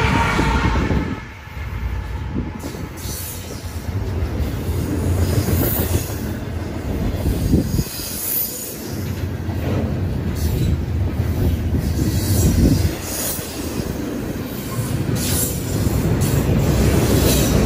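BNSF double-stack container train passing close by: a locomotive horn trails off in the first second as the last locomotive goes past, then the stack cars rumble and clatter along the rails with repeated high-pitched wheel squeals.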